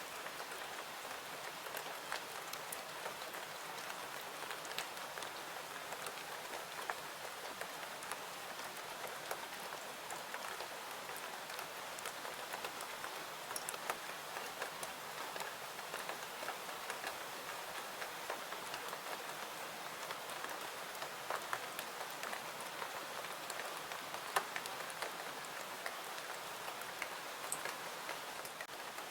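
Steady rain falling, an even hiss with many scattered small ticks and pops throughout.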